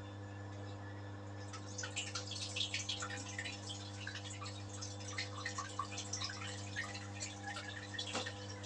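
Samsung digital-inverter washing machine running its spin program with a steady hum, and from about a second and a half in, water splashing and dripping irregularly as the pumped-out water spills onto the floor: the household drain is not taking it.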